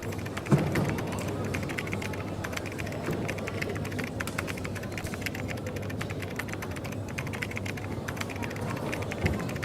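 Typing on a computer keyboard, a rapid irregular stream of key clicks, over coffee-shop background chatter. A dull thump sounds about half a second in.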